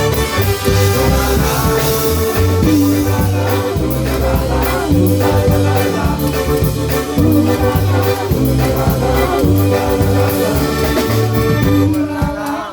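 Polka band playing live: an instrumental passage of an up-tempo dance song, with a bass line that moves in steady steps.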